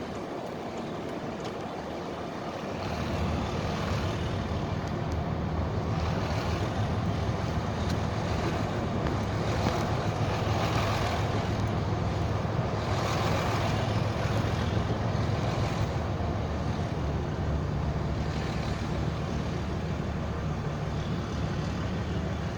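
Straight-piped 2003 Cummins 5.9-litre inline-six turbo-diesel running under way, its exhaust note growing louder about three seconds in and then holding steady.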